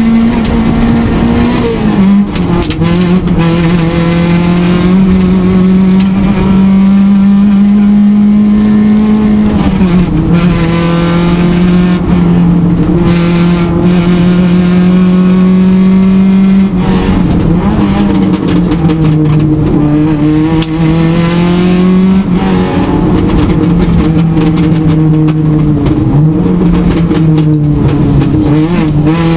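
Rally car engine at high revs, heard from inside the cabin. Its pitch drops sharply and climbs again several times as the driver shifts gears and lifts off the throttle.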